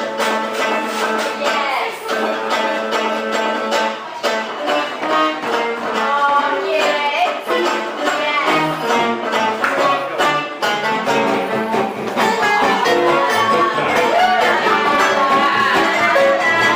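Live band playing gypsy-style music: plucked strings keep a steady rhythm under a bending melody line, and the music grows a little louder about twelve seconds in.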